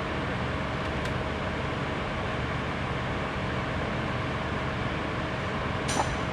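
Steady workshop background noise with a low hum and a faint steady tone, broken by a small click about a second in and a sharper metallic clink that rings briefly near the end.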